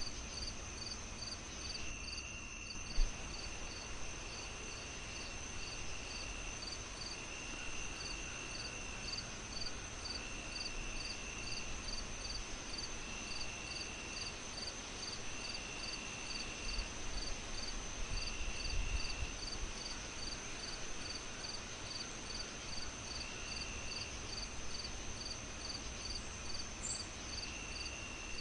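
Crickets chirping in a steady rhythm, about two chirps a second, with a second insect trill coming and going every couple of seconds. Under them is a low fireplace crackle, with one sharp pop about three seconds in.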